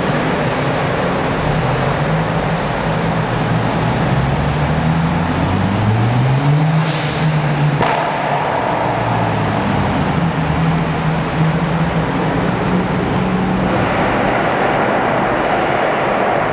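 Performance car engines and exhausts running in a road tunnel, over a constant rush of traffic noise. About five seconds in, one engine's pitch climbs as it revs up, then holds steady.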